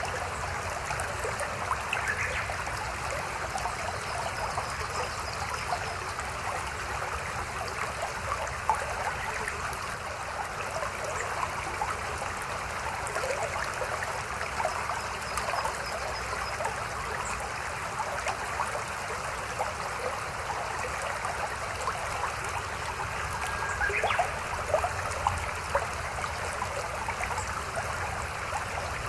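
A small mountain stream flowing and babbling over rocks, a steady rush of water with many small splashes, a few of them sharper about four-fifths of the way through.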